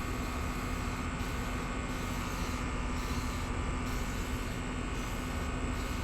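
Steady mechanical hum with an even hiss of background noise, holding level and unchanging, with no separate spray strokes or knocks standing out.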